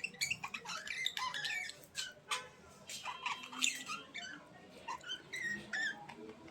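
Small birds chirping and chattering: many quick, high chirps and squeaks, with a buzzy call a few seconds in.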